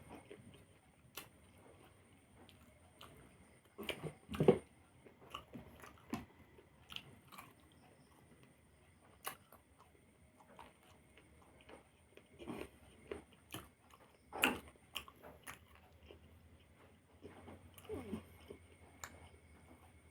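A person eating a meal, chewing and biting, with scattered small crunches and clicks and two louder sharp sounds about four and a half and fourteen seconds in.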